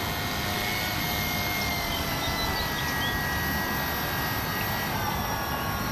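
Electric motor and propeller of an RC seaplane running at a steady whining pitch, with a slight drift in pitch.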